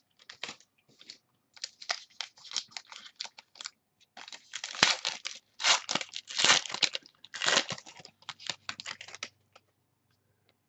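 Foil wrapper of a football card pack being torn open and crinkled by hand: irregular rustling and tearing, louder from about midway and stopping near the end.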